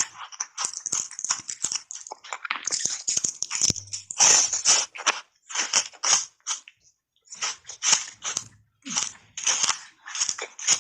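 Small button-shaped ice cubes coated in matcha powder being bitten and chewed: a fast, irregular run of crisp crunches with a short break a little past the middle.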